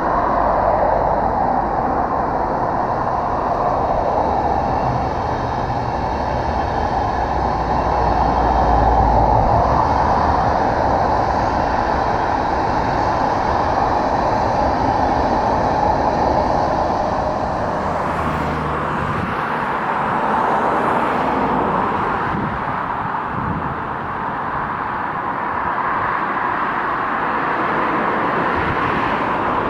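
A train running past on the track, a continuous rolling noise whose character changes about eighteen seconds in.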